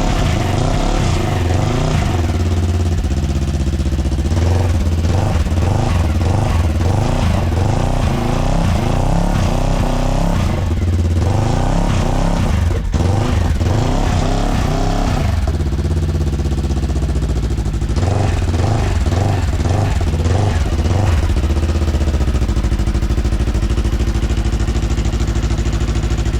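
Segway Villain side-by-side engine running through an aftermarket stainless-steel Treal Performance Vader exhaust. It is revved again and again, its pitch rising and falling, then settles to a steady idle about 22 seconds in.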